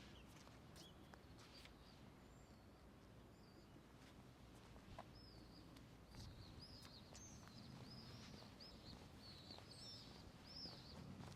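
Faint songbird twittering: a run of quick, bending chirps that starts about halfway through, over a low steady hum of outdoor background noise, with a few faint ticks.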